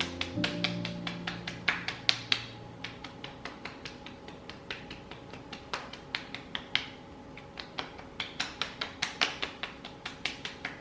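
Rapid fingertip tapping on facial skin, about six quick taps a second in short runs with brief pauses.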